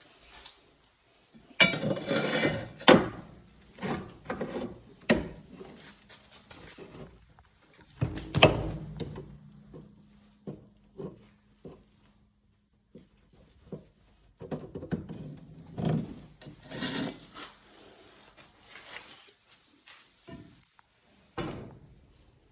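Irregular metal knocks, thunks and tool clatter from work on a car's ball joint, with a short steady hum now and then.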